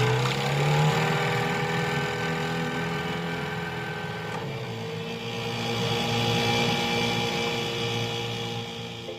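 Cartoon engine sound effect that rises in pitch at the start, then runs at a steady hum.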